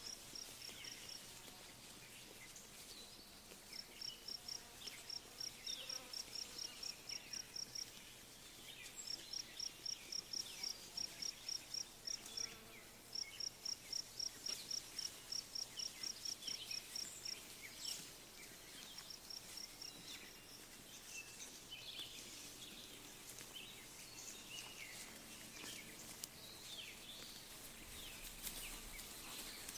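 Faint pasture ambience with birds chirping. A high chirp repeats about four times a second in several runs of a few seconds each during the first half, over short scattered chirps.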